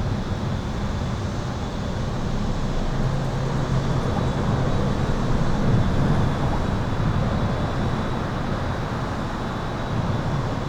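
Highway traffic heard from beneath an overpass: a steady dense rumble of passing vehicles that swells a little about halfway through. A faint high steady tone runs over it.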